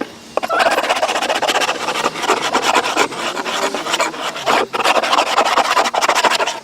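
Large, sharp hand paint scraper rasping chemically softened old paint off a garage door, in long runs of scraping broken by short pauses.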